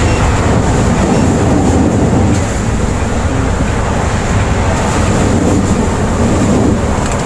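Steady rumble of a Volvo B8R coach on the move, heard from inside the passenger cabin: diesel engine and road noise with no breaks or changes.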